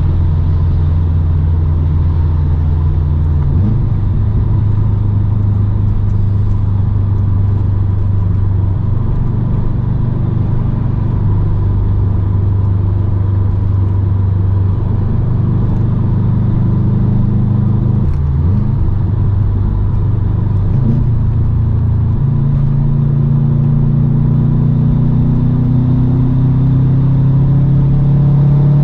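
2008 Subaru Impreza WRX STI's turbocharged flat-four running through an Invidia catted downpipe and N1 exhaust while driving, its pitch holding steady with a few step changes and a brief break about eighteen seconds in. Over the last several seconds the engine pitch climbs steadily as the car accelerates.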